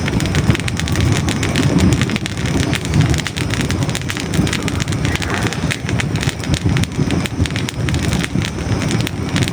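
Hardwood logs burning in a fireplace, crackling and popping with many sharp cracks over a steady low rumble of the flames.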